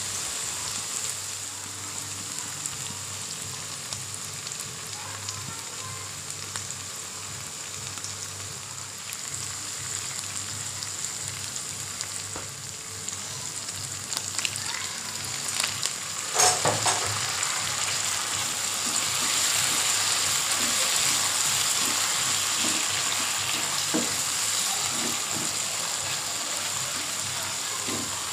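Spice paste frying in hot oil in a pan and being stirred, a steady sizzle. About halfway through there is a sharp clack, after which the sizzling is louder.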